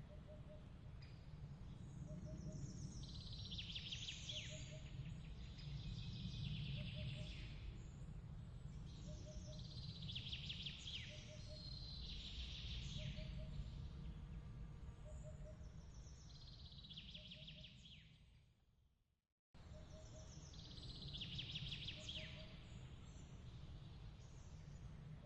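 Layered ambience track: birds chirping in short clusters every couple of seconds over a steady low rumble, with a soft double pip repeating about once a second. Well past the middle the whole bed fades to silence, then cuts straight back in where the loop restarts.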